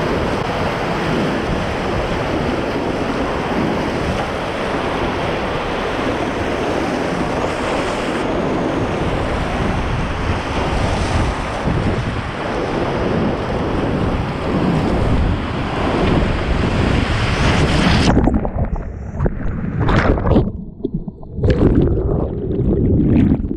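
Whitewater rapids of a river in flood, about 150 cubic metres a second through a 30 m wide channel: a dense, steady rush of water. About eighteen seconds in the sound drops off suddenly and becomes uneven, with gusty swells and sharp splashes or knocks.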